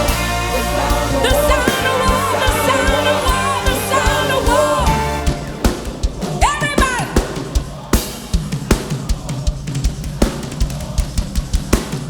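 Worship music: singing over a band with sustained chords, which about five seconds in drops away to a steady drum-kit beat with one brief rising-and-falling vocal cry.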